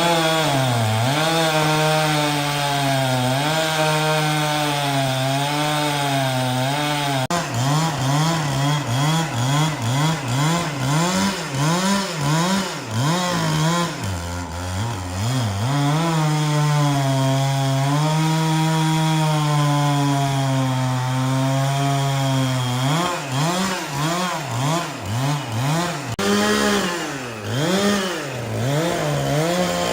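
Chainsaw engine running hard while cutting wood. Its pitch repeatedly dips and rises as the throttle is worked and the chain loads in the cut, with a few stretches held steady at high revs.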